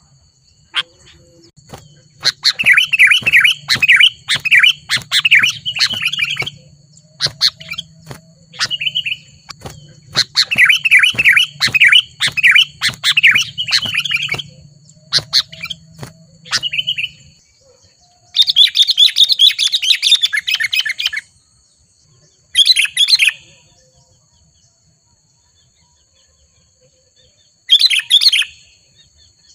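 Sooty-headed bulbuls (kutilang) calling: several runs of rapid, chattering notes a few seconds long in the first half, then shorter, harsher bursts separated by pauses.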